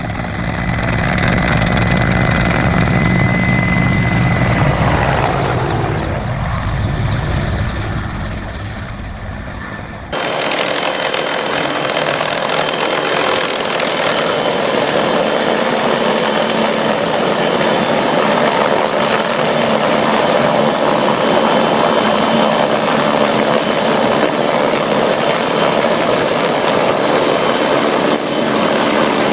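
Helicopter rotor and engine noise, loud and continuous. About ten seconds in it switches abruptly to a different recording with less low rumble and a steady high whine over hiss.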